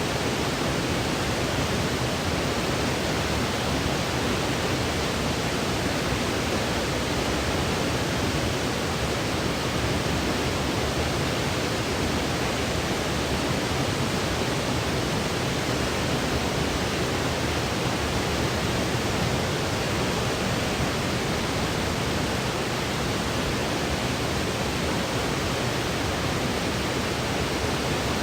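Steady synthetic white noise used as a sleep aid: an even, unchanging hiss spread across all pitches.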